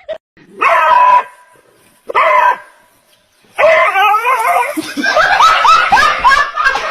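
A dog vocalising: two short pitched calls, then a long run of wavering yowls that keep sliding up in pitch.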